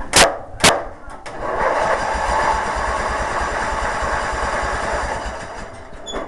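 Craftsman riding lawn mower engine being cranked from a jump start: two sharp clicks, then a steady whirring crank for about four seconds that stops without the engine catching.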